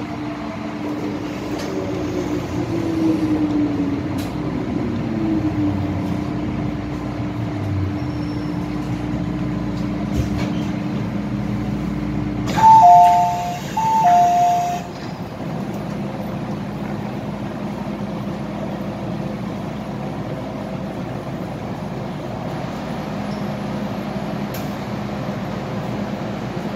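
MTR M-Train's traction motors whining downward in pitch as the train slows, then a steady hum. About halfway through, the train's two-note electronic door chime sounds twice, each time high then lower.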